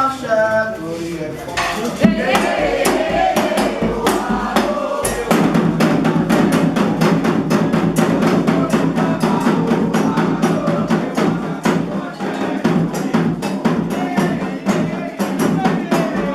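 Candomblé ritual drumming on atabaque hand drums, a fast, steady beat of many strokes. Voices singing in the first few seconds fade out, and the drumming carries on alone.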